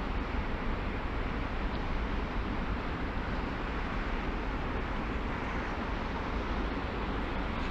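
Steady noise of a car driving along: a continuous low rumble of tyres, wind and engine, with no distinct events.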